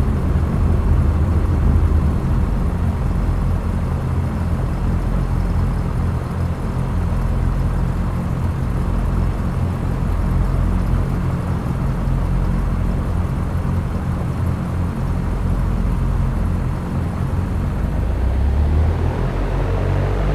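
Cessna 172's single piston engine and propeller running steadily in flight, a constant drone.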